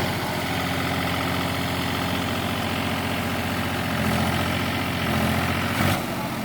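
Heavy diesel engine running steadily at low revs, swelling a little twice, with a sharp knock just before the end, after which the engine note drops lower and quieter.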